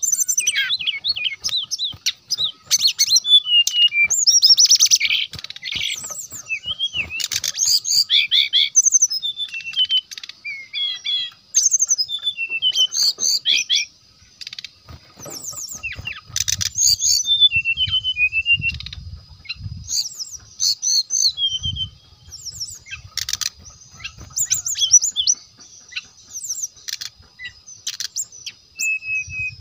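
Brown-chested jungle flycatcher singing: fast, varied runs of high chirps and twittering phrases, broken by short pauses. A faint steady high whine runs beneath the song.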